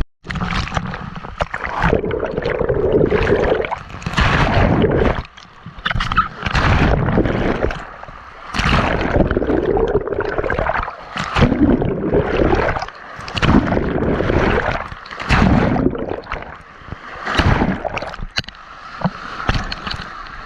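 Water sloshing and gurgling in repeated surges, swelling and falling away every second or two.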